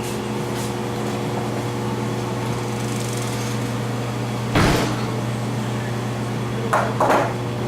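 A steady machine hum runs throughout, with a sharp knock about halfway through and two shorter knocks near the end.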